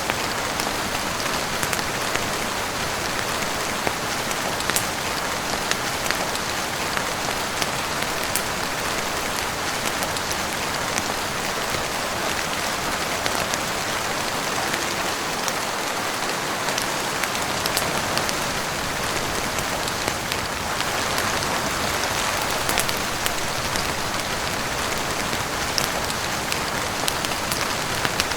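Heavy rain falling steadily on a roof and windows, an even hiss with scattered sharp ticks of individual drops.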